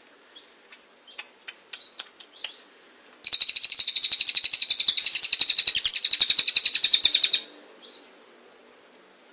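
Songbird giving a few short high chirps, then a loud, rapid trill of about ten notes a second lasting roughly four seconds, a 'roll tembak' burst, ending with one more chirp.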